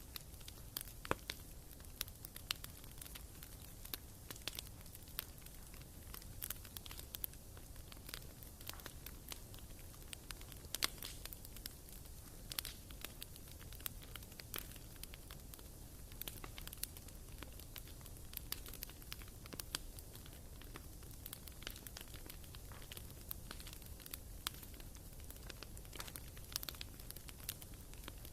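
Wood fire burning in a fireplace, crackling with irregular sharp pops and snaps.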